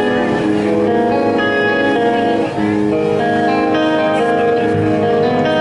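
Clean electric guitar picking a slow arpeggiated, classical-style intro, each note ringing on under the next, played live through an amplifier.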